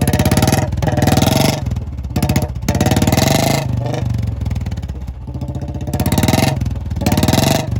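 Royal Enfield Bullet 350's single-cylinder engine revved in repeated short bursts, about one a second, dropping back to a low idle between them, with a longer lull in the middle.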